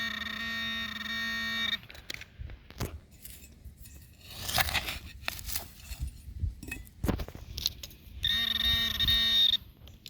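Metal detector signal tone, a steady buzzing tone that cuts off about two seconds in. Scraping and clicking of digging in soil follow. The same tone sounds again for over a second near the end, here from a target that turns out to be trash.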